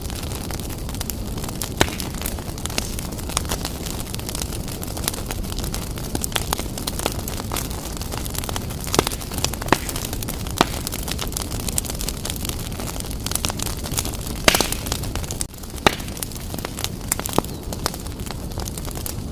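Wood fire blazing in a fireplace: a steady low rumble of flames with frequent sharp crackles and pops of burning wood, one louder pop about three-quarters of the way through.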